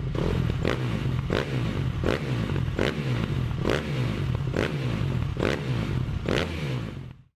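Automatic garage door opener running: a steady motor hum with a regular clank about every three-quarters of a second, stopping suddenly near the end.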